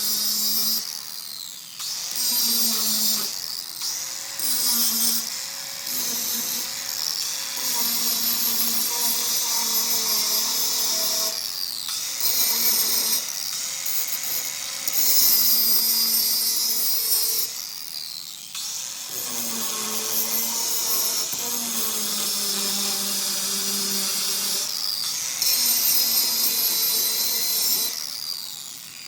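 Handheld power tool with a drill-like motor whine and a harsh scraping hiss, run in bursts of a few seconds with brief slowdowns in between, grinding paint off steel.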